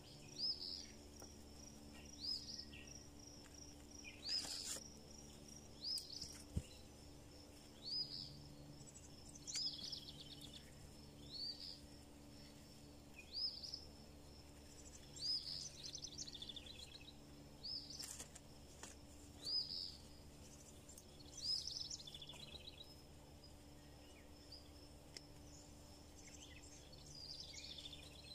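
A songbird repeating a short, high chirped phrase about every one and a half to two seconds, over a faint steady low hum. A couple of sharp clicks stand out, one near the start and one past the middle.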